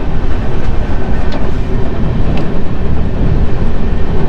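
Steady low rumble and running noise of a moving double-decker passenger train, heard from inside the coach, with a couple of faint sharp clicks.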